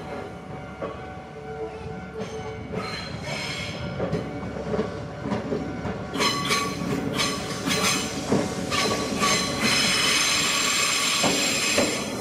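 Mizuma Railway 1000-series electric train pulling into the station, growing louder as it nears. Its wheels clatter over the track, and over the last couple of seconds comes a sustained high squeal as it slows.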